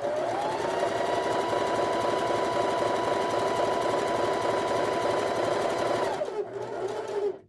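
Electric sewing machine stitching quilt pieces under foot-pedal control: it speeds up right at the start, runs at a steady speed, then slows about six seconds in and stops near the end.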